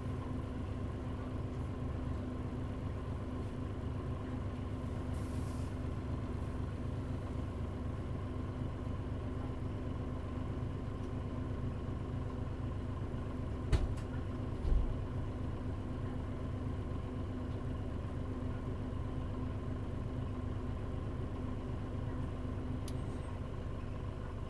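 Mitsubishi Fuso Aero Star bus with a Nishi-Nippon body (KL-MP35JM), heard from inside the cabin: engine and road noise at a steady, even pitch. About 14 seconds in there is a short knock, then a low thump a second later.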